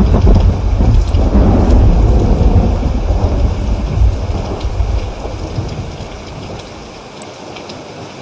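Rain falling steadily with a long rumble of thunder that is loud at first and dies away over the second half, leaving the rain hiss with scattered drop ticks.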